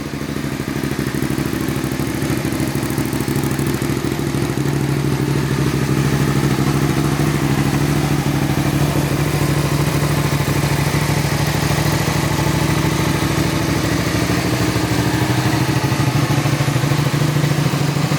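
Suzuki SV650S's 645 cc 90-degree V-twin engine running at a steady idle, growing louder over the first few seconds and then holding even.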